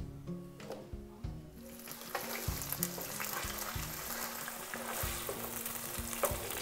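Cubed potatoes frying in hot oil in a nonstick kadai over a high flame. The sizzle builds up from about a second and a half in, and a wooden spatula stirs them. Background music with a steady low beat starts at the beginning.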